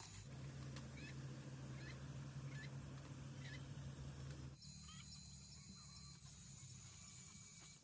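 Faint outdoor ambience with scattered short bird chirps over a steady high, thin drone. A low steady hum runs through the first half and stops abruptly a little over halfway, where the background changes.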